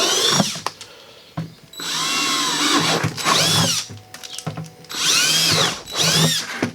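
Power drill with a 3/8-inch bit boring holes in a water bucket for chicken waterer nipples. It runs in about five short bursts, its whine rising and falling in pitch as the trigger is squeezed and let go.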